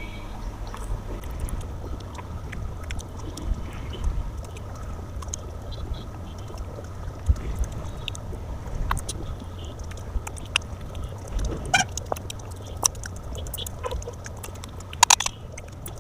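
Close-up eating sounds: chewing and wet squishing of rice and curry, with many small clicks and smacks, over a low steady hum.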